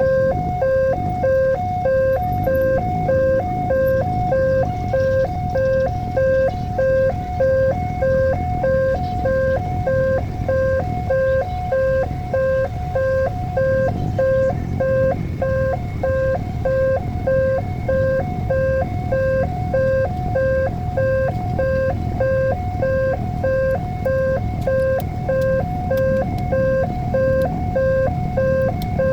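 Railway level-crossing warning signal sounding a repeating electronic two-tone alarm, about one and a half cycles a second, with a steady low rumble underneath.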